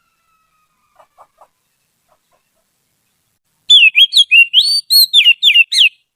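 Oriental magpie-robin (kacer) singing: a fast run of clear, loud whistled notes that slide up and down, starting past the middle and lasting about two seconds. A few faint clicks come about a second in.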